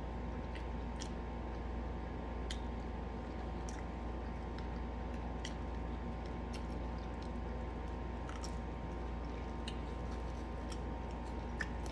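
A person chewing food, with scattered faint mouth clicks and squelches, over a steady low hum.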